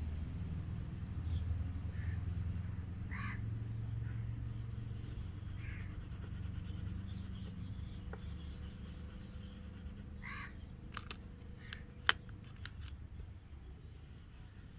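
A few short bird calls, the clearest two about three seconds in and about ten seconds in, over a steady low rumble. Late on come several light clicks and one sharp, loud click.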